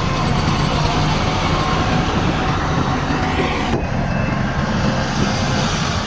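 Heavy diesel engine of earthmoving machinery, a bulldozer or dump truck, running steadily under load.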